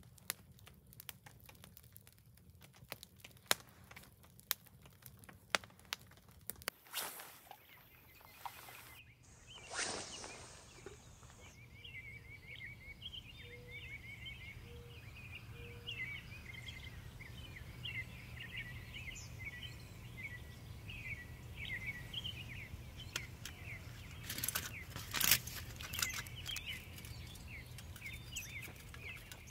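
Small birds chirping in quick, high-pitched runs over a steady low outdoor rumble, from about a third of the way in. Before the birds, scattered light clicks and taps and a brief whoosh.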